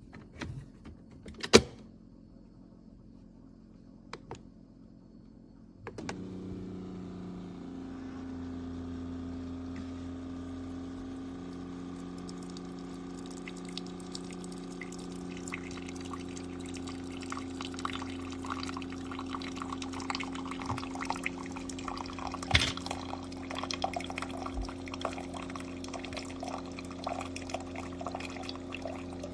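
A few clicks, then about six seconds in a drip coffee maker's pump starts with a steady hum. From about twelve seconds in, hot coffee streams and drips into the cup beneath it, with a crackly splashing that builds toward the end.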